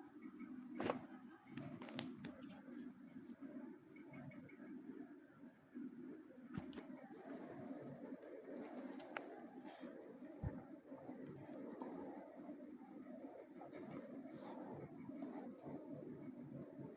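Crickets chirring steadily in a high, continuous trill, with a few faint metallic clicks of tools being handled.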